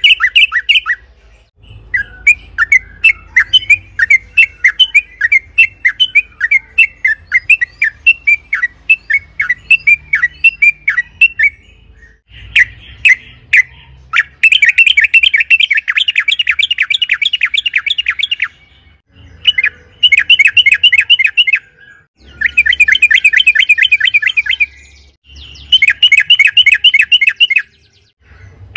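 Yellow-vented bulbul (trucukan) singing long rapid runs of repeated sharp chirps, in bursts of two to four seconds with short pauses between. The run about halfway through is the longest and densest.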